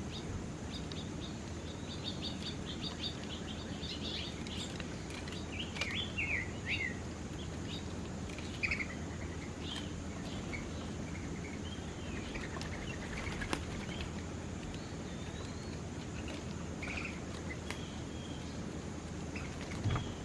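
Several small birds chirping and singing, with short trills and quick rising and falling chirps scattered throughout, over a steady low outdoor rumble. A few sharp clicks stand out, one about halfway through.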